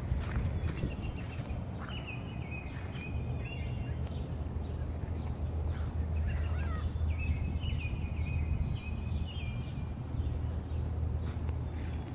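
Songbirds singing repeated short chirping phrases, with a rapid high trill about halfway through, over a steady low rumble and scattered light taps.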